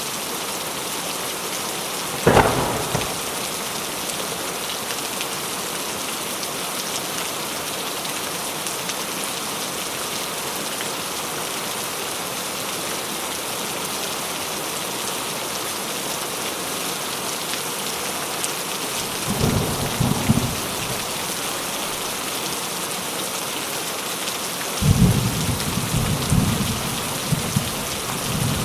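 Steady rain with thunder. A sharp thunderclap comes about two seconds in, then low rumbles about twenty seconds in and again for a few seconds near the end.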